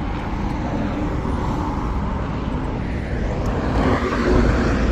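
Highway traffic going by: a steady rush of tyres and engines, growing louder about four seconds in as a vehicle passes close.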